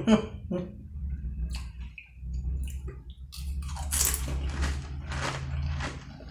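Close-up chewing of a Doritos tortilla chip coated in cheese sauce: repeated crunches, about two a second, getting louder from about three and a half seconds in.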